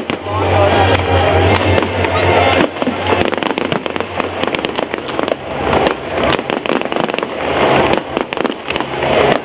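Fireworks going off in quick succession: a dense run of sharp bangs and crackles that grows thicker about three seconds in.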